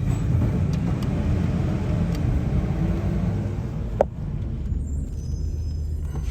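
Steady low vehicle rumble, with a single short knock about four seconds in.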